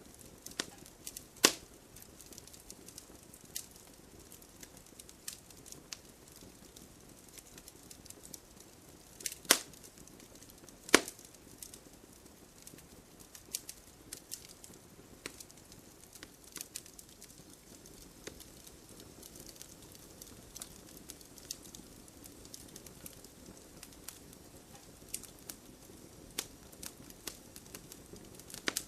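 Wood fire crackling steadily, with scattered small snaps over a low hiss and three loud pops: one about a second and a half in and two close together near the middle.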